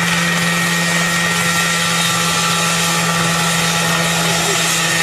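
Engine and rotors of a home-built flying machine running steadily in flight: a constant low hum with steady higher tones over a wash of noise.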